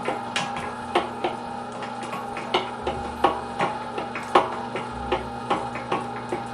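A steady mechanical hum with irregular light clicks and knocks over it, about two a second.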